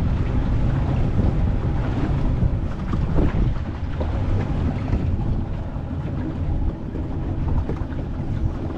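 Small boat under way, its motor running with wind buffeting the microphone and water rushing past the hull.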